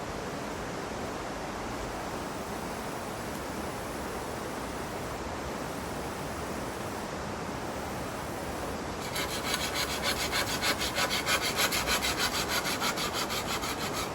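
Steady outdoor hiss, then about nine seconds in a hand saw starts cutting wood, likely firewood for the campfire, in quick regular strokes of about three a second.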